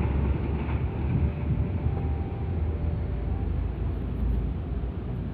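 Serayu passenger train running past, a steady low rumble with some wind on the microphone.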